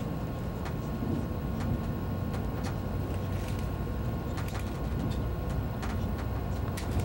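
Cabin of an ICE high-speed train running at speed: a steady low rumble, with scattered light clicks and ticks.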